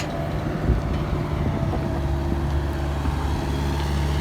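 Heavy diesel engine of an earthmoving machine running steadily, with a few light knocks about the first second and some wind on the microphone.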